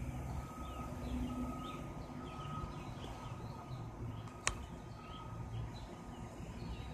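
Birds chirping in short, quick falling calls over a low steady rumble of distant traffic. A faint beep repeats about once a second, and there is a single sharp click about four and a half seconds in.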